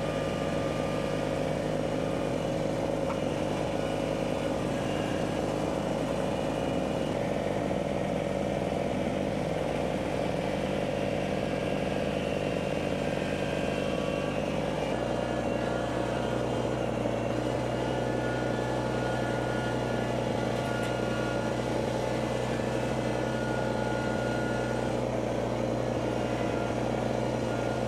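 A vehicle engine running steadily. Its note shifts about halfway through, then holds steady again.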